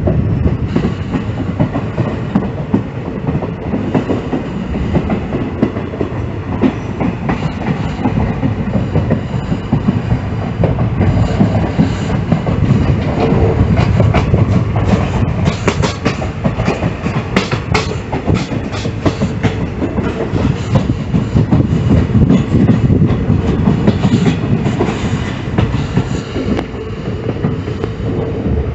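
Passenger train running along the track: a steady rolling rumble with wheels clacking over rail joints, and a run of sharper clacks about halfway through.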